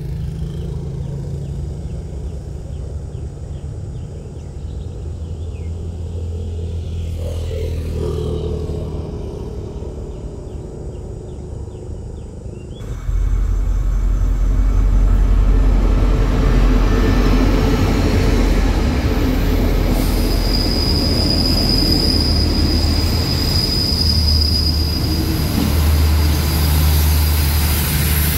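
Train running, then after a cut, louder, a State Railway of Thailand passenger train rolling into a station platform with a deep rumble from the carriages. A steady high-pitched brake or wheel squeal sounds for several seconds from about two-thirds of the way in.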